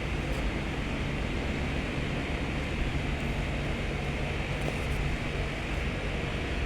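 Engine running steadily with a low hum, under a haze of wind-like noise.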